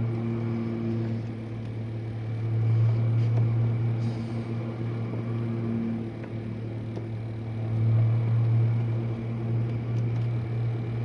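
Jenn-Air dishwasher running mid-cycle: a steady low hum from the wash pump with a wash of water noise over it. It swells louder about three seconds in and again about eight seconds in.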